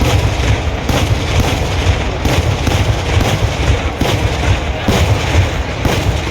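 Festival fireworks going off in a dense barrage: loud bangs about once a second over a continuous rumble of booms.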